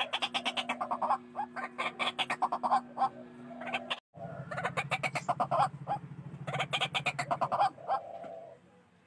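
White-breasted waterhen calling: bursts of rapid, harsh repeated notes, each burst about a second long with short gaps between. The recording cuts out briefly about four seconds in, and a low hum underneath gives way to a low pulsing drone.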